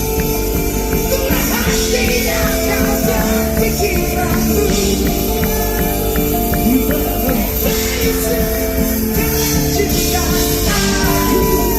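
Loud live band music in a rock style, with held chords over a steady heavy bass.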